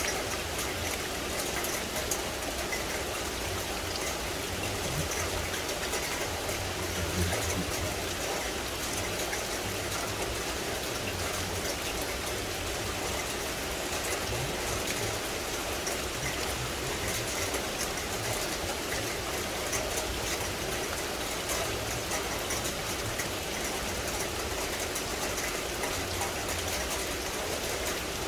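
Steady rain falling in forest: an even hiss of rainfall with many fine, close drop hits, and a low rumble underneath.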